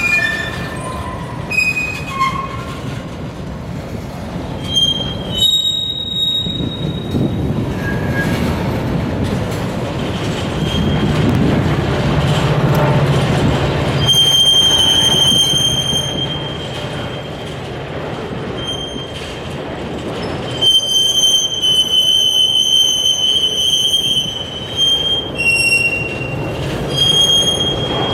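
A train passing, its steel wheels squealing against the rails: high, thin squeals that come and go again and again over a steady rumble of the cars rolling by.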